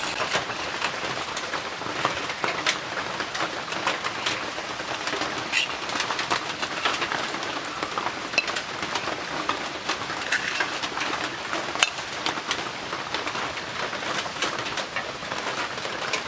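Heavy rain falling steadily on a roof, with many individual drops ticking sharply through the patter.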